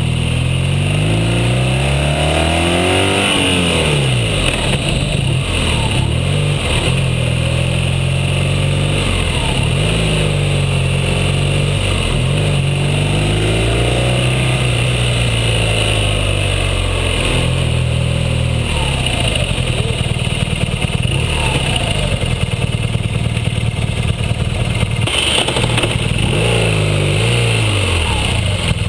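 BMW R1200GS flat-twin engine heard from the motorcycle itself. Its pitch rises and falls again and again as the rider accelerates out of bends and eases off, climbing to a peak about three seconds in before dropping away.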